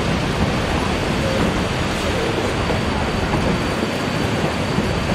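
Durango & Silverton narrow-gauge train running along the track: a steady rumble of wheels on rail mixed with rushing air, with a thin steady high tone over it.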